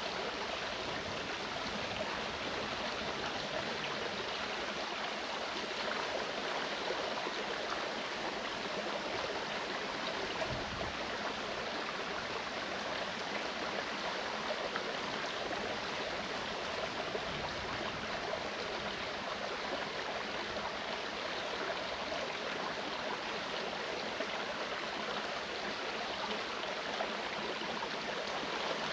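Clear mountain stream running steadily over rocks, an even rush of water with no let-up.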